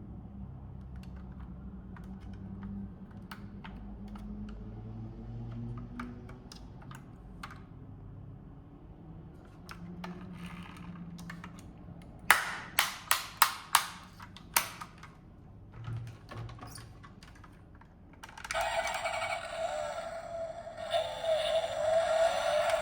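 Light irregular clicks and taps of small hard parts being handled, then a run of six loud sharp clicks. From about eighteen seconds in, a car-engine sound comes in and rises in pitch as it revs.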